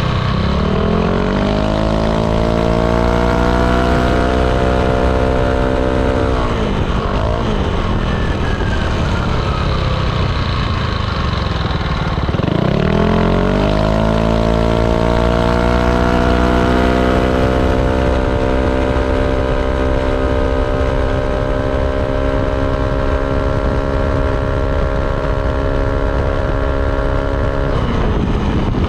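Yamaha Aerox 155 scooter's single-cylinder engine through a ROB1 aftermarket exhaust, under way. The engine note dips several times as the throttle is rolled off (at the start, about a quarter of the way in, before halfway and near the end), and each time climbs back and levels off into a steady drone as the scooter accelerates and cruises.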